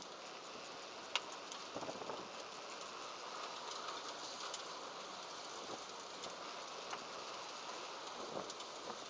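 Steady outdoor wind noise, an even hiss, with a few light clicks and taps scattered through it.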